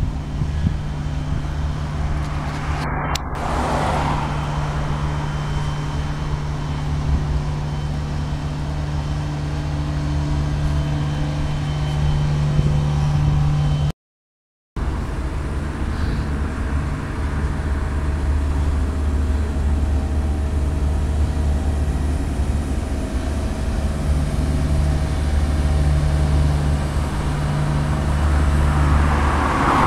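Freight train rolling past at close range: a steady low drone and rumble from the passing cars on the track. The sound cuts out completely for under a second about halfway through.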